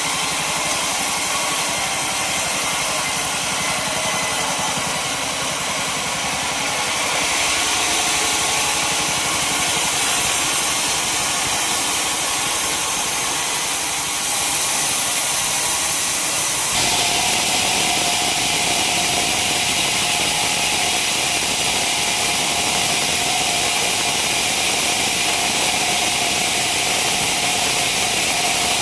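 A sawmill running: an engine and a saw blade working through a log, heard as steady loud machine noise. The sound shifts suddenly about 7 and 17 seconds in, and after the second shift a steady tone holds.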